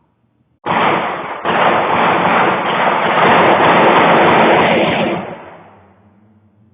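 Loud, dense burst of rapid gunfire with the shots running together: it starts suddenly, breaks off for an instant, carries on for about four seconds and then trails off.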